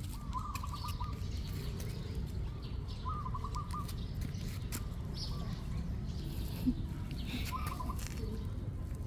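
An animal's short trilled chirps, three in all, over a steady low rumble.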